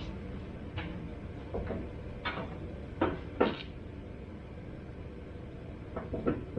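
Engine being shifted on its hoist chain into the car's engine bay: a series of irregular metal knocks and creaks, loudest twice around the middle, with a cluster more near the end, over a low steady hum.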